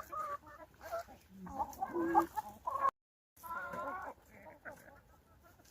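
Hens clucking, a run of short pitched calls that stops abruptly about three seconds in and resumes shortly after.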